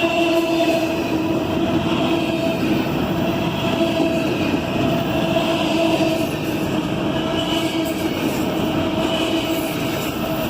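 Norfolk Southern freight train rolling past: steady rumble of railcars on the track, with a wavering whine held over it.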